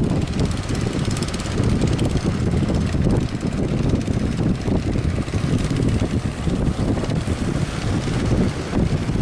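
Strong wind buffeting the microphone in a steady, dense low rumble.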